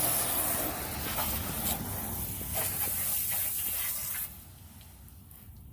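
Water spraying onto the truck, a steady hiss that stops sharply about four seconds in.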